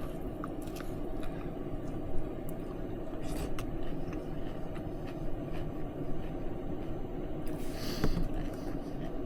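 A person chewing a mouthful of cereal and milk: a few short clicks and two brief crunchy bursts, about three seconds in and near the end, over a steady low background noise.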